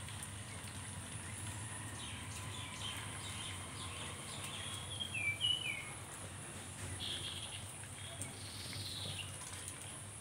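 Short, high bird chirps over a steady low hum: scattered calls, a quick run of four falling notes about five seconds in, and more calls near seven and nine seconds.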